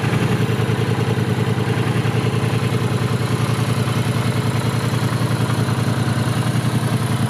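Triumph Bonneville Speedmaster 1200's 1200 cc parallel-twin engine idling steadily, with an even, rapid exhaust pulse.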